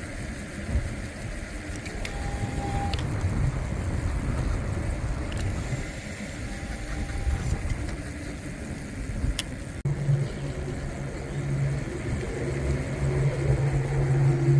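Low rumbling traffic and road noise with wind on the microphone. About ten seconds in it changes abruptly to a steady low hum, like a nearby vehicle engine running.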